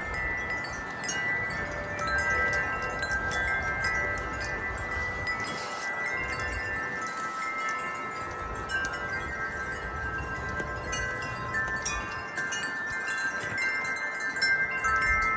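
Wind chimes ringing as the wind blows them, many long overlapping tones struck again and again.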